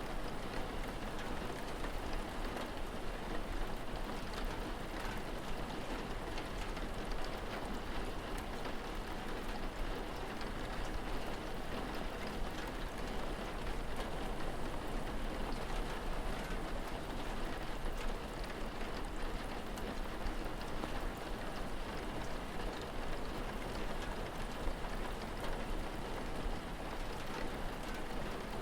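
Steady rain falling: an even hiss filled with many small drop patters, holding constant throughout.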